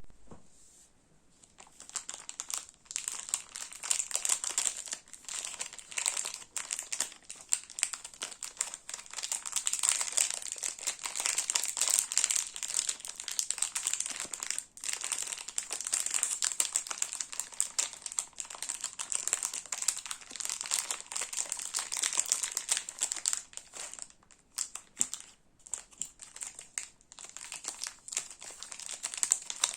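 Crinkly plastic sweet wrappers being handled and opened: dense crackling and crinkling that starts about a second and a half in and thins out briefly near the end.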